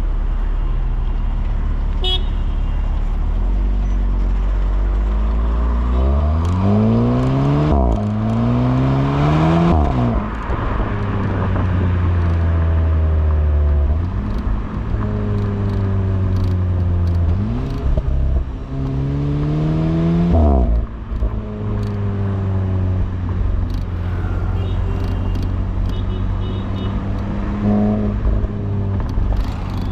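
Volkswagen Polo GTI's 1.8 TSI turbocharged four-cylinder heard at the exhaust while driving. The engine pulls up in pitch twice: the first pull is broken by a quick upshift about eight seconds in, and each pull is followed by the pitch falling away as the car eases off.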